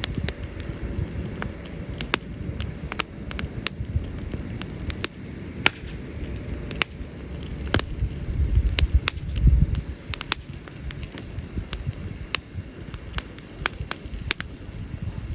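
Wood campfire crackling: irregular sharp snaps and pops from the burning wood over a steady low rumble, which swells briefly about nine seconds in.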